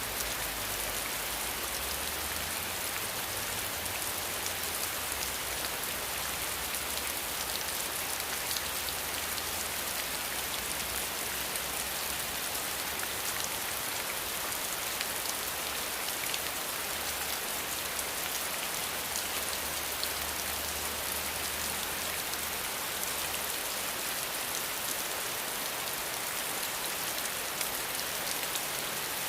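Steady rain falling: a dense, even hiss sprinkled with fine drop ticks, with a faint low rumble coming and going underneath.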